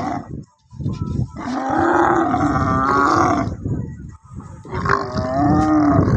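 Dromedary camel crying out twice with a loud, rough, pitched call: a long one of about two seconds, then a shorter one near the end.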